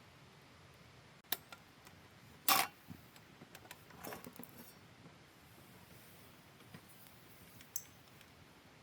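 Small hard objects being handled: a sharp click, then a short clatter and a run of lighter clinks and rattles, with another click near the end, over a faint steady hiss.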